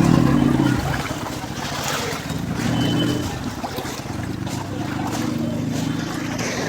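A motor vehicle's engine running with water splashing and sloshing, as when driving through a flooded street. The engine hum swells near the start, again about three seconds in and again near the end.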